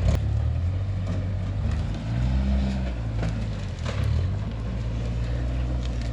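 Off-road truck engine running under load as it crawls an obstacle, revving up and easing off a couple of times, with a few sharp knocks.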